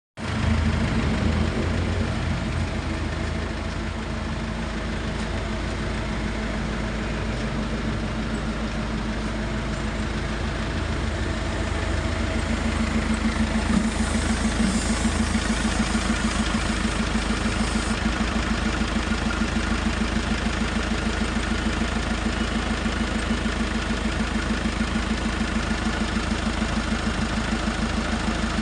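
Nissan Navara's engine idling steadily. From about halfway it takes on a fast, even pulse, and a soft hiss joins for a few seconds around the middle.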